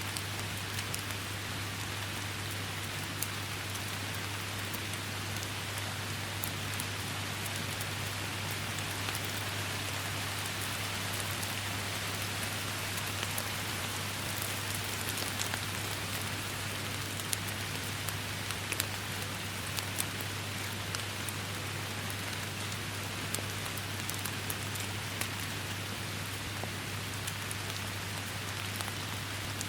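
Steady heavy rain falling, an even hiss dotted with many sharp single drop hits, over a constant low hum.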